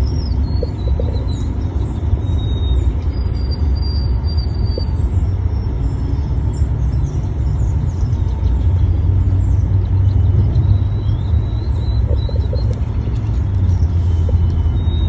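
A steady low rumble, with faint thin high bird calls now and then.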